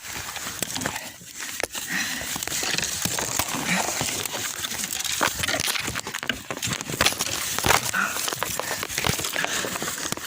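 Rustling and crackling handling noise as the phone's microphone rubs and knocks while it is held, with many sharp clicks throughout.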